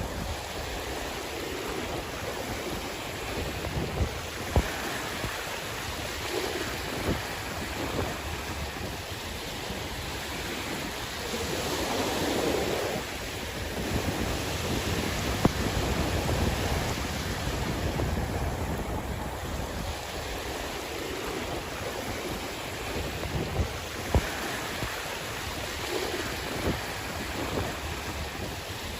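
Sea waves washing ashore in a steady surf wash that swells and ebbs, one swell louder about twelve seconds in. Wind buffets the microphone with a low rumble and a few short knocks.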